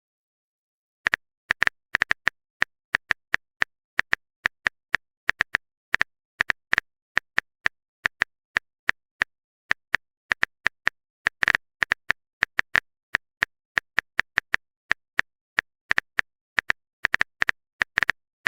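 Phone-keyboard typing sound effect: a run of short, identical bright ticks at an uneven pace of about three or four a second, with silence between them.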